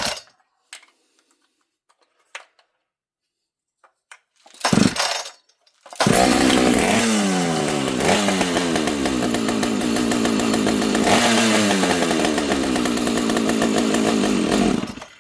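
Two-stroke chainsaw engine catching briefly near five seconds, then starting about six seconds in and running for about nine seconds, its revs sagging twice, before it dies near the end. The saw will not settle to an idle, which the owner puts down to a wrong carburetor that has no idle screw.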